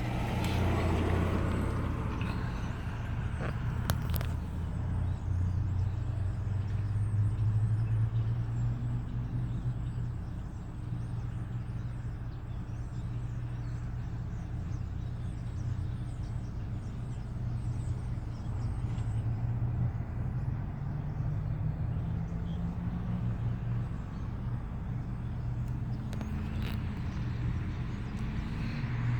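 Car running, a steady low rumble whose engine note slowly rises about two-thirds of the way in.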